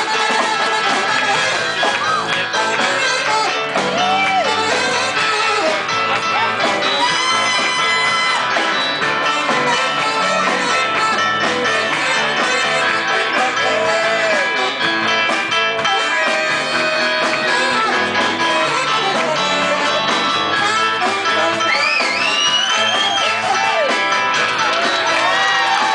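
Live band playing a song, with guitar to the fore and many notes bending up and down in pitch.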